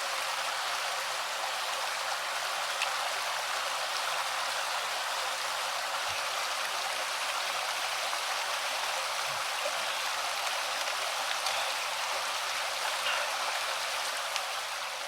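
Flowing stream water, a steady even rushing that starts to fade away at the very end.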